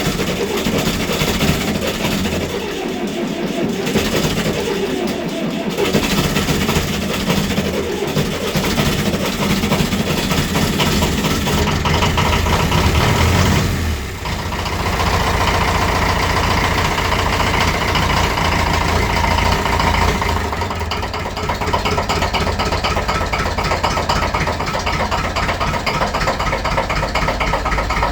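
Massey Ferguson 35 tractor engine on a cold start after standing for months in frost: it is cranked and fires unevenly, picks up and rises in speed, dips briefly about halfway through, then settles into a steady run.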